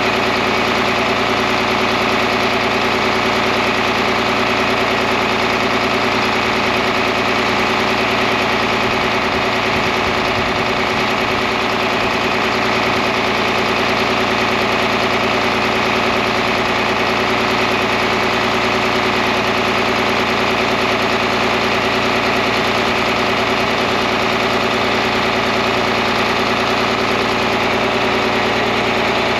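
John Deere 4010 tractor engine running steadily at idle.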